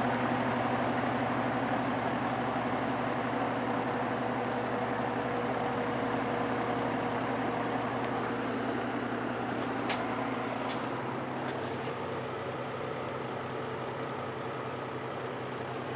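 General Electric F15W13 box fan running in reverse, a steady rush of air over a low electric motor hum, gradually getting quieter.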